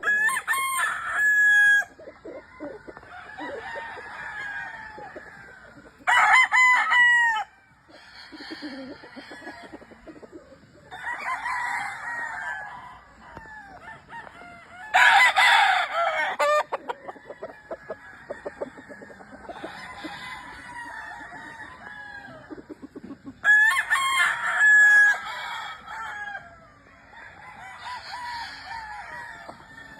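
Roosters crowing on a fowl farm: four loud crows at roughly even spacing, near the start, about 6 s in, about 15 s in and about 24 s in, with fainter crowing and clucking from other birds in between.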